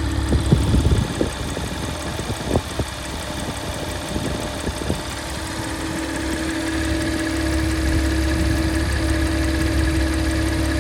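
Porsche Macan S running steadily with a low hum. Over the first five seconds, irregular knocks and clicks come through: the strange noise the owner is recording. After that it settles to a steady hum with a faint high tone.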